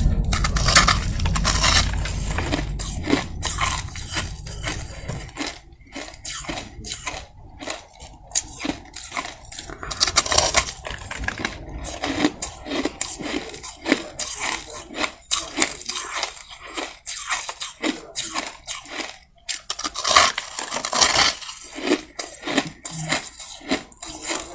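Soft crushed ice being bitten and chewed close to the microphone: rapid, crackly crunching, with heavier bursts of bites near the start, about ten seconds in and about twenty seconds in.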